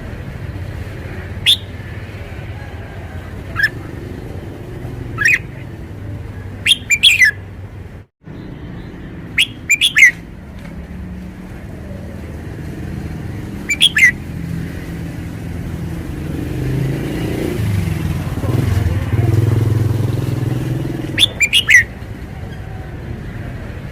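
Red-whiskered bulbul singing short, loud phrases every few seconds, over a steady low engine rumble of traffic that grows louder in the second half.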